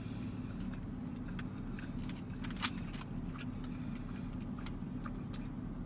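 Steady low hum of a parked car's idling engine heard inside the cabin, with scattered faint clicks of chewing and eating, one sharper click about two and a half seconds in.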